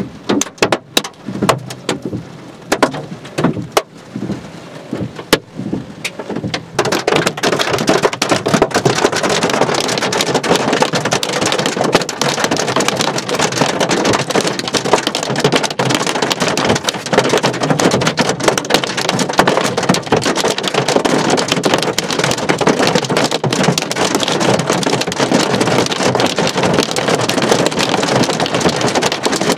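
Hailstones striking a hard surface: at first scattered, separate sharp cracks, then about seven seconds in a dense, loud, continuous pelting.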